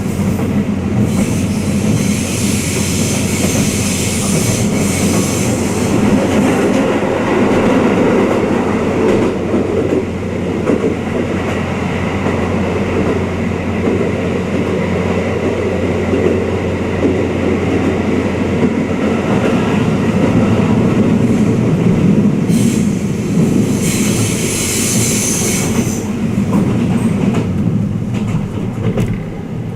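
Twilight Express Mizukaze passenger car running on the line, heard from inside a guest compartment: a steady rumble of wheels on rail. Twice, for a few seconds each, a high hissing squeal rises over the rumble, once near the start and once about two-thirds of the way in.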